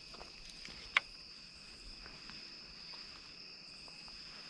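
Steady, faint high-pitched chorus of insects such as crickets, with one sharp click about a second in.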